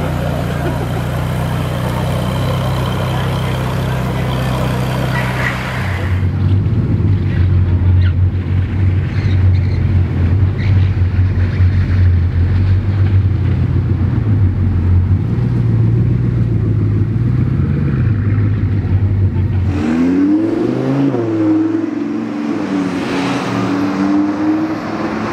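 Three supercar engines in turn. First the Ferrari 458 Speciale A's V8 runs with a steady low tone. About six seconds in, the Bugatti Chiron Sport's W16 takes over with a steady, deeper hum as it rolls slowly by. Near the end, the Audi R8 V10 Plus's V10 rises and falls in pitch, then climbs as it revs up.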